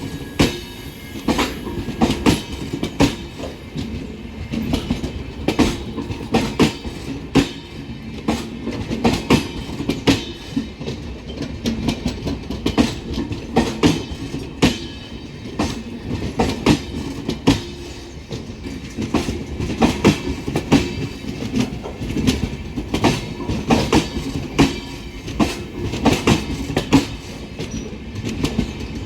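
Passenger coaches of an Indian Railways express pulling out of a station, their wheels rumbling and clacking over rail joints and points in a steady run of sharp, irregular clicks.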